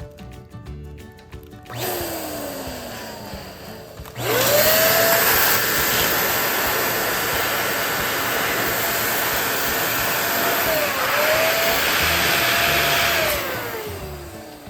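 Electric balloon pump blowing air to inflate a balloon: the motor starts with a quieter rush, then runs loud and steady for about nine seconds, with a brief dip in pitch near the end, and winds down.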